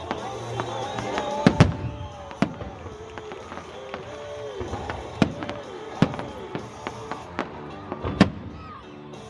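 Fireworks shells bursting in sharp, irregularly spaced bangs, a close pair about a second and a half in and another loud one near the end, with music playing underneath.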